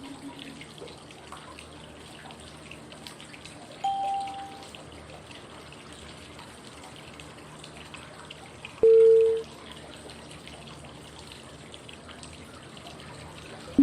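Steady flowing-water white noise with a short cue tone about every five seconds: a higher tone about 4 s in, a lower, louder one about 9 s in, and a still lower tone at the very end. The tones pace the inhale, hold and exhale of 5-5-5 breathing.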